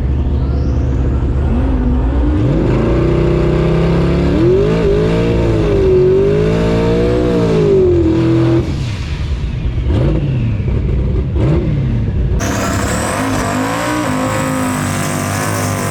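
Drag-race car engines revving, pitch climbing and wavering up and down, then dropping off about two-thirds of the way through. After two short throttle blips, an abrupt change in the sound brings in another engine revving up near the end.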